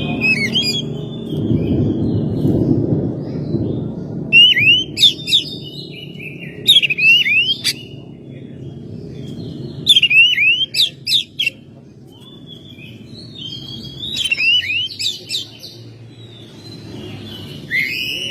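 Oriental magpie-robin singing in bursts of loud, sharp whistled notes that swoop up and down, a phrase every few seconds with softer twittering between. A low rumble runs under the first few seconds.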